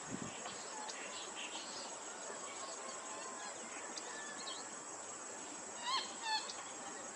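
Marsh ambience: a steady high insect drone, with faint scattered bird chirps. About six seconds in come two short, louder bird calls in quick succession.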